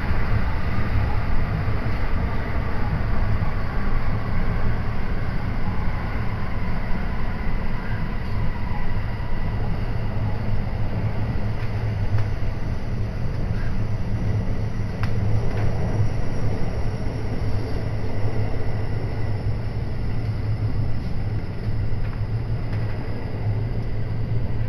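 A train running along the line, heard from inside the carriage: a steady low rumble with even running noise over it.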